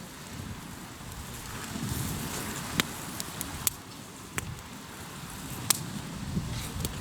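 Hardwood campfire crackling, with irregular sharp pops every second or so. Underneath is a low rushing swell that rises and falls, the sound of waves on the shore.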